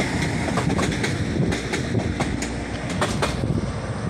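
Northern Class 195 diesel multiple unit pulling away, a low rumble with its wheels clicking irregularly over rail joints and points, getting a little fainter near the end.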